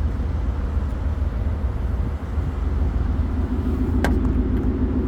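A vehicle engine idling: a steady low hum, with a single sharp click about four seconds in.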